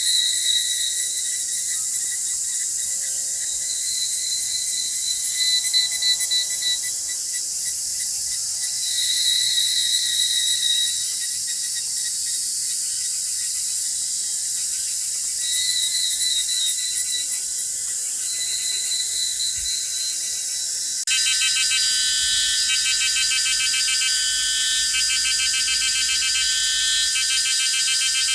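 Insects calling: a steady high hiss with short trills that come and go every few seconds. About three quarters of the way in, it switches abruptly to a louder, rapidly pulsing insect buzz.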